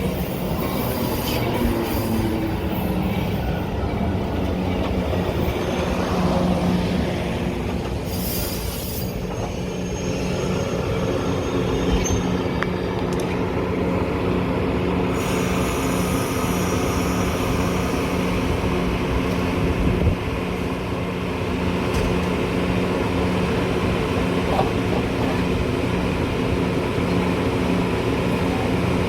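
Metra commuter train running: the steady rumble of the cars on the rails under a constant low hum, with some wheel squeal.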